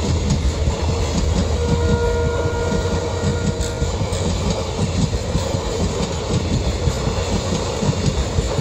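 Indian Railways passenger coaches rolling past close by, a steady heavy rumble with the rapid clickety-clack of wheels over the rail joints. A faint squealing tone runs from about one and a half to four seconds in.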